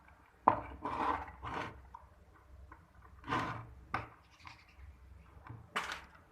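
Electric drill parts being handled on a workbench: about six short scraping and knocking sounds, the sharpest about half a second in.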